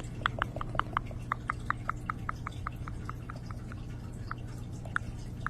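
A quick series of short, sharp clicks close to the microphone, about five a second at first and then sparser from about two and a half seconds in: an ASMR clicking trigger for a pretend hungry creature eating.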